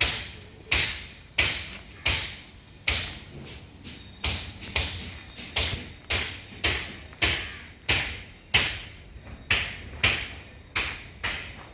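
Series of sharp, hard blows at a slightly uneven pace of about one and a half a second, each followed by a brief fading ring.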